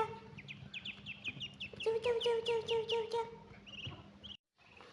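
Indian Runner ducklings peeping: quick runs of short, high, falling peeps. A lower, pulsing peep joins in for about a second from two seconds in.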